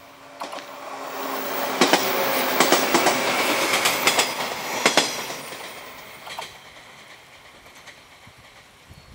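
JR 115-series electric multiple unit passing close by, its wheels clicking sharply over the rail joints. The sound builds over the first couple of seconds, is loudest for about three seconds, then fades away.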